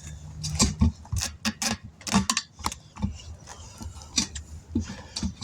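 Irregular sharp metallic clicks and taps, about a dozen, from hand tools working on a truck wheel and tire.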